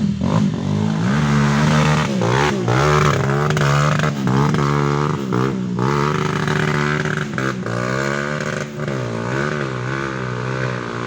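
Off-road trail motorcycle engines revving hard, the pitch rising and falling again and again as the bikes push through mud.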